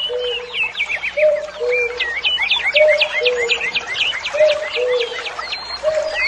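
Common cuckoo calling its falling two-note "cuck-oo", repeated about four times, once every second and a half. Other small birds chirp and trill busily at a higher pitch behind it.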